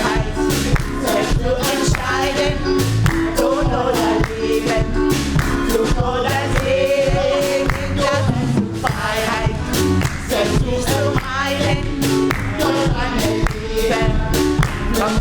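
Live gospel choir singing with a band, over a steady beat of drums and bass.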